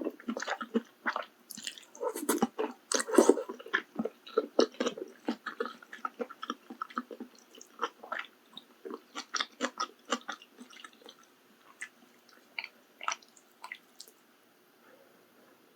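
Close-miked wet chewing of malatang: many quick, moist mouth clicks and smacks. They come thick for the first ten seconds or so, thin out, and die away near the end.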